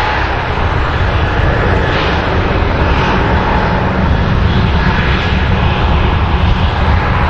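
Jet airliner taking off, its engines making a loud, steady noise heavy in the low end.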